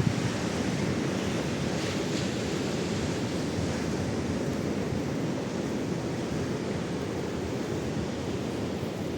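Steady wash of ocean surf mixed with wind on the microphone.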